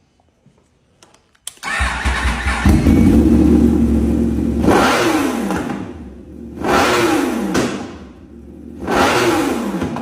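Sport motorcycle engine starting about a second and a half in and settling to idle, then revved three times, each rev falling back to idle.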